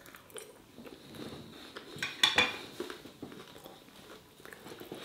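A man chewing a mouthful of food, with a few soft clicks and a sharper clink of a fork against the plate about two seconds in.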